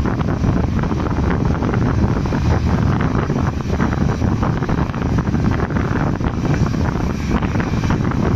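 Passenger train coach running at speed, heard from an open window: steady wind rush over the microphone with the rumble and rattle of wheels on the rails.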